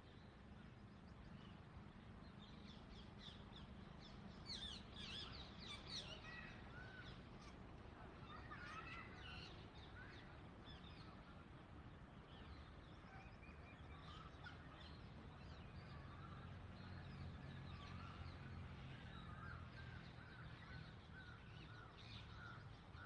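Faint parrot calls, short and scattered, thickest about five seconds in, over a low steady hum.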